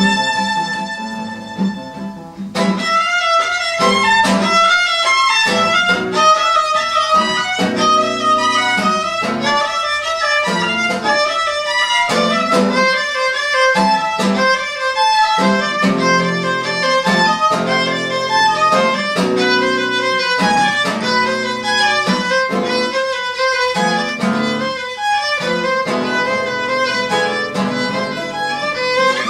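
Live violin playing with accompaniment: a held note, then from about two and a half seconds in a quick, running melody over a rhythmic lower accompaniment.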